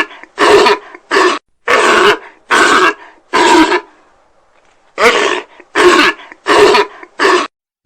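An animal's short, hoarse calls repeated about one or two a second, in two runs with a pause of about a second between them.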